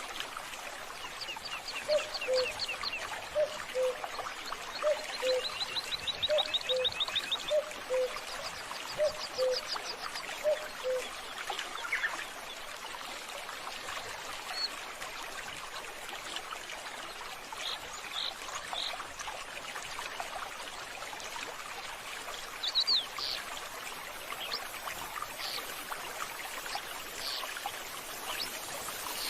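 Water trickling steadily while birds call. A low two-note call, the second note lower, repeats about once a second for the first ten seconds or so, with high trilled chirps over it; short high chirps are scattered through the rest.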